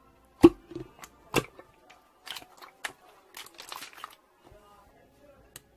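Slime being squeezed and pressed by hand, giving sharp pops and crackling clicks. The loudest pop comes about half a second in, another follows a second later, then smaller crackles.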